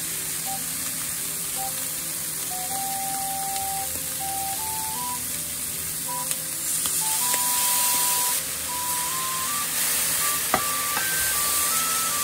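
Bitter melon and bacon sizzling steadily in a frying pan, under light background music with a simple stepping melody. The sizzle grows a little stronger past the middle.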